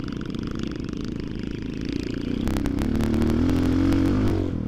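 Motoland XR250 dirt bike engine running, revving up about two and a half seconds in and easing off near the end, with sharp clicks over it.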